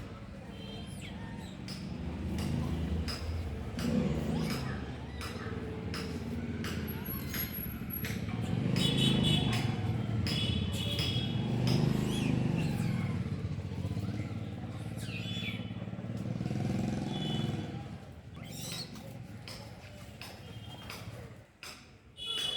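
Street traffic noise: the low rumble of passing motorbike and vehicle engines that swells and fades, people's voices, scattered clicks, and repeated short high-pitched beeps.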